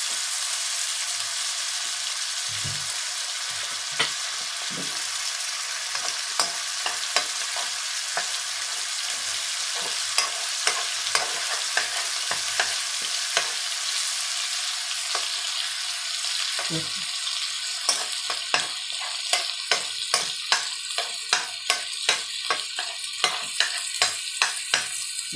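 Egg and sour pork sausage sizzling steadily in a nonstick wok while a metal spatula stirs and scrapes them. The spatula's taps against the pan grow frequent in the last several seconds, about two a second.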